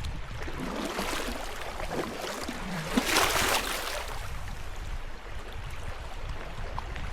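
River water running over shallow riffles under a steady low rumble, with kayak paddle strokes splashing; the loudest splash comes about three seconds in.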